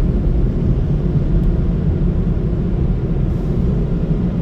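Car wash tunnel dryer blowers running with a steady, loud rumble.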